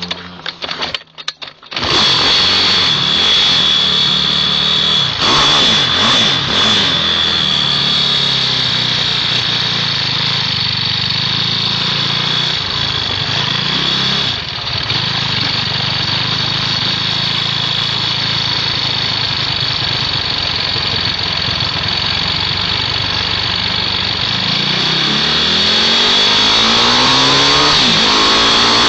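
Small mini bike engines running hard on a race track, a continuous high buzzing drone. About two seconds of knocks come before it, and near the end an engine's pitch climbs as it accelerates.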